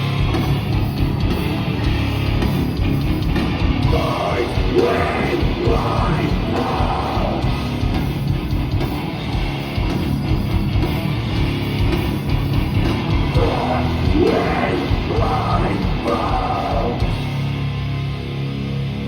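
Metalcore band playing live: distorted guitars, bass and drums, with vocals coming in twice, about four seconds in and again around thirteen seconds in.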